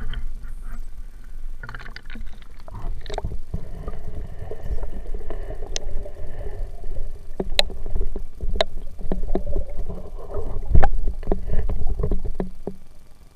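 Muffled sloshing water with a low rumble and scattered sharp knocks, picked up by an underwater camera in a stream; the sound fades away near the end.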